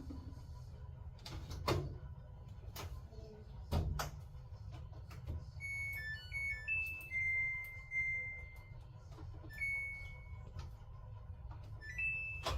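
A few sharp knocks over a low steady hum, then a short electronic tune of high beeps at stepping pitches, one note held for about a second and a half, and two or three more beeps near the end.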